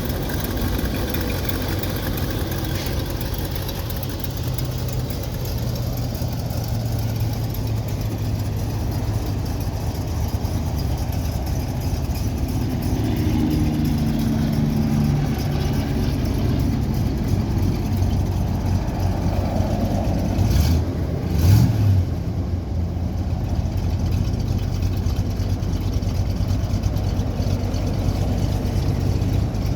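1967 Oldsmobile 442's 400 cubic-inch V8 running steadily, with a short burst of throttle about two-thirds of the way through.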